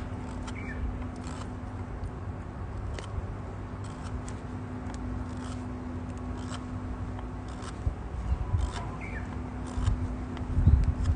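Wood campfire crackling, with irregular sharp pops over a low steady rumble, and a few low thumps near the end.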